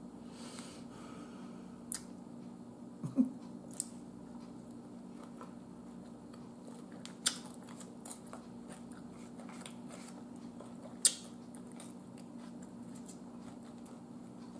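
A person eating creamy coleslaw close to the microphone: quiet chewing with a handful of sharp clicks and smacks, the loudest about eleven seconds in, over a steady low hum.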